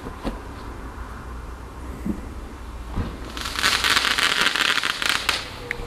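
A firework going off with a dense, rapid crackling and fizzing that starts about three seconds in and lasts about two seconds, over a low background rumble.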